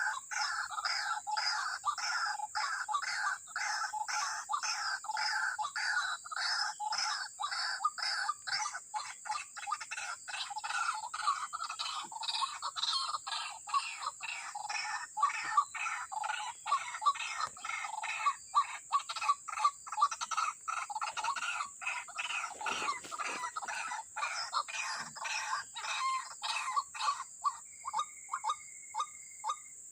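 White-breasted waterhen (ruak-ruak) calling: a long unbroken series of loud repeated calls, about two to three a second, that turns into sharper, more spaced notes near the end. A steady high whine runs underneath.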